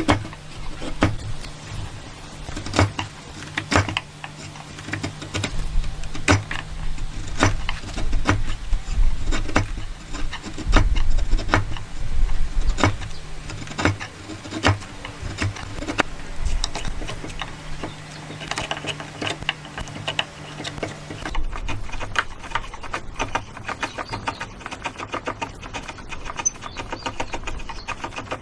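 Woodworking tool sounds: irregular knocks and taps over a low steady machine hum that stops suddenly about 21 seconds in, followed by faster, rapid tapping.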